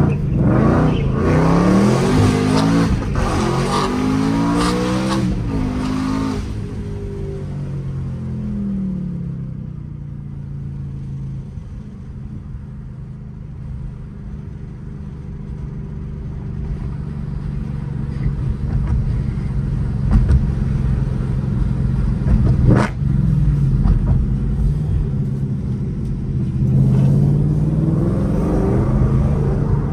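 Ford Mustang Mach 1's 5.0-litre V8 heard from inside the cabin, revving up hard through several quick upshifts in the first few seconds, then easing off to a steady cruise. A little over two-thirds in there is a short, sharp rev, and near the end the engine pulls up through the revs again.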